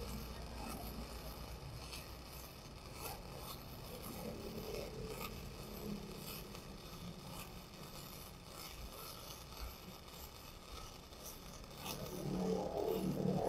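MIG welding arc from a Lucky Star 285S welder laying a bead on thick steel at about 180 A: a steady crackling sizzle of short, irregular clicks. It grows louder and rougher near the end.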